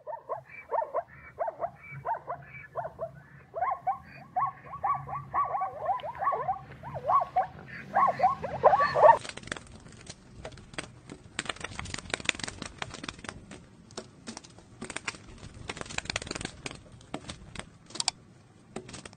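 An animal calling in a quick series of short, pitched calls, about two a second, for roughly the first nine seconds. Then come scuffling and crackling noises with many sharp clicks.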